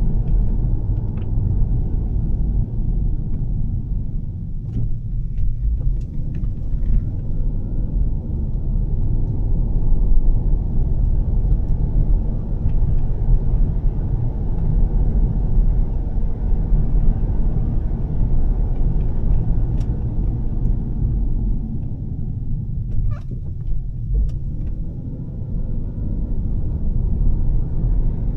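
2013 Volvo S60 T6 with a Heico exhaust being driven: a steady low rumble of engine, exhaust and road noise, with a few faint clicks.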